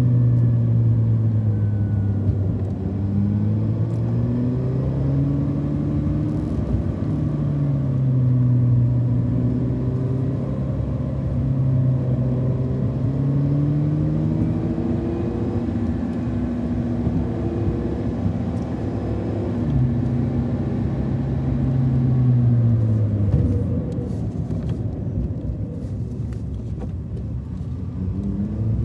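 Car engine and road noise heard from inside the cabin while driving, the engine note rising and falling with speed and gear changes. About three quarters of the way through the engine pitch drops away as the car slows.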